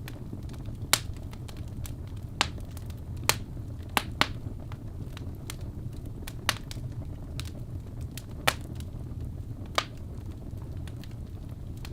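Wood fire in a fireplace: burning logs crackling with irregular sharp pops over a steady low rumble of flame.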